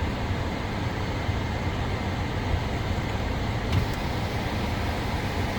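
Car driving on a snow-covered road, heard from inside: a steady low rumble of engine and tyres, with one short click a little before four seconds in.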